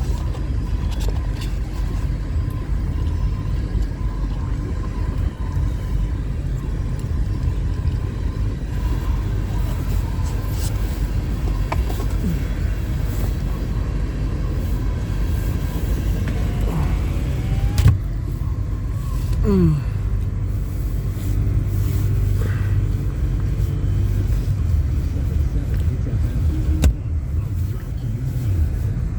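CN freight train rolling past with a steady low rumble and scattered faint clicks, with a few brief gliding tones in the middle.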